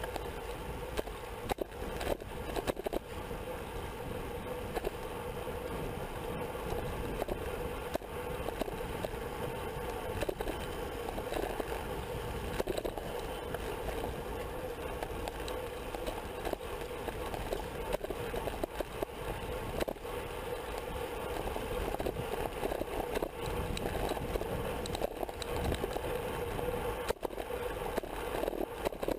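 Onboard sound of a road bike racing in a pack: a steady rush of wind and tyre noise with a constant hum, and scattered clicks and knocks from the bike.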